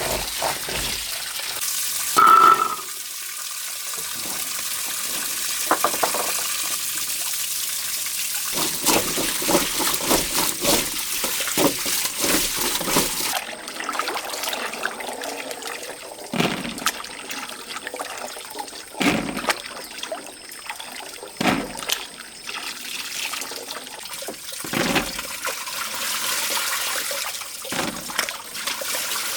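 Water running and splashing, with a sharp clink about two seconds in and scattered knocks and clatters through the second half.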